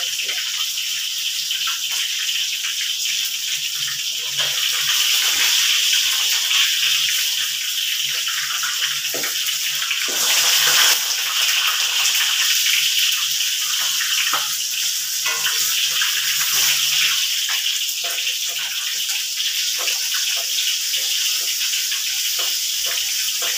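Fish frying in hot oil in a wok: a steady high sizzling hiss, swelling louder for a moment about ten seconds in, with light clinks of a wire spider strainer against the wok.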